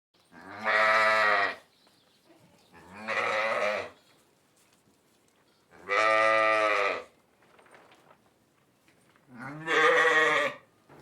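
Sheep bleating: four separate calls of about a second each, a few seconds apart.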